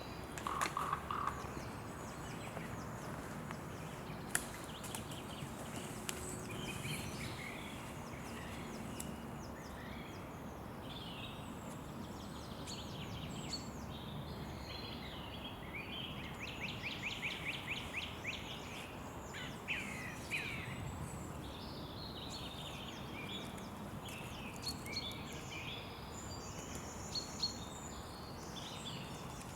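Small birds chirping and singing in short repeated phrases over a steady outdoor hiss, with a few sharp clicks.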